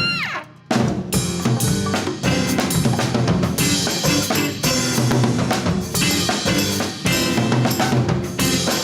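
Latin fusion band playing live, with the drum kit to the fore: snare, rimshots and bass drum over a busy groove. A held note bends downward at the very start, the band drops out for a moment, then comes back in hard under a second in.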